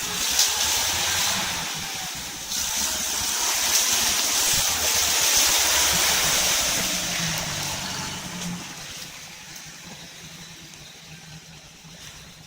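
Off-road vehicle driving forward through mud and water: a loud rushing splash over a low engine rumble. It grows stronger after a couple of seconds, then fades away after about eight seconds.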